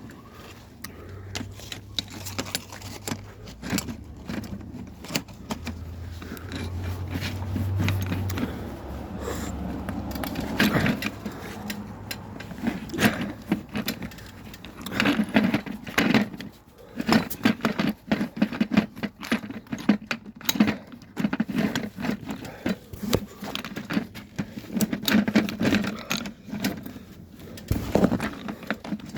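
Many short metallic clinks, knocks and scrapes of hard objects being handled, such as tools and fittings, thickest in the second half. A low steady hum runs under the first eight seconds or so.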